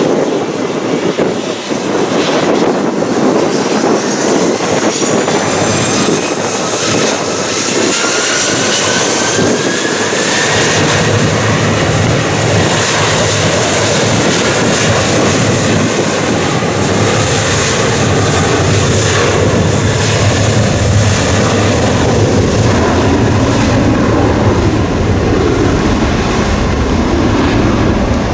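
Jet airliner's engines: a whine that rises in pitch over about the first ten seconds, then a loud steady rumble.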